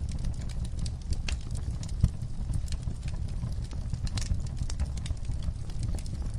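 Wood fire crackling in a fireplace: irregular sharp pops and snaps over a low, steady rumble of the flames, with one louder pop about two seconds in.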